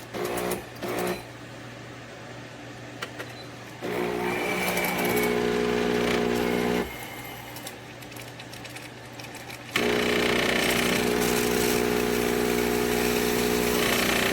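Home espresso machine's pump buzzing in a steady electric hum. A few short pulses at the start give way to a run of about three seconds, then, after a pause, a longer run of about five seconds.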